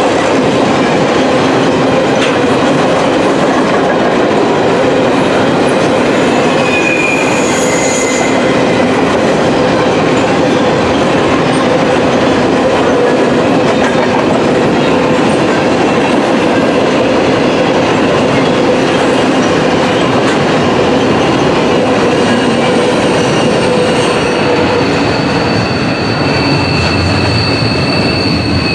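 Canadian Pacific freight train's cars rolling past close by: a steady loud rumble of steel wheels on the rail, with short high-pitched wheel squeals about a third of the way in and a steadier squeal setting in near the end.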